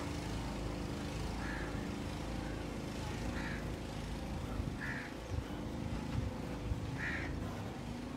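Steady low hum with a bird's short call repeating four times, about every one and a half to two seconds.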